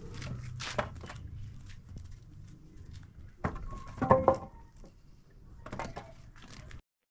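A few scattered knocks and clatters of objects being handled, the loudest about four seconds in with a brief pitched ring. The sound cuts off abruptly near the end.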